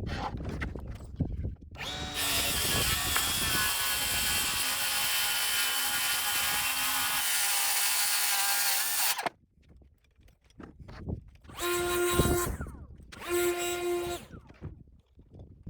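Circular saw cutting through subfloor sheathing, with a steady high whine, for about seven seconds before stopping abruptly. Then come two short motor whirs of a power tool.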